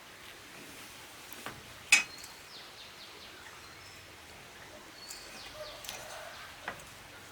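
Outdoor ambience with small birds chirping in short falling notes. A single sharp click or knock about two seconds in, with fainter taps shortly before it and near the end.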